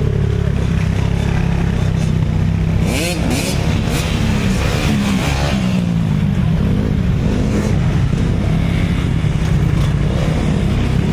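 Dirt bike engine running steadily. Its pitch swings up and down a couple of times, about three and five seconds in.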